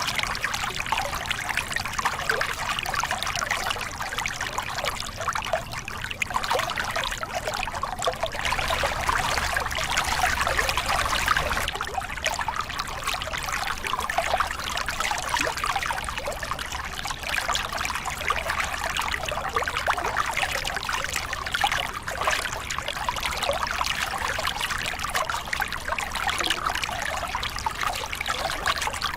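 Small river cascade: water pouring and splashing over rocks in a steady, continuous rush with a fine bubbling texture.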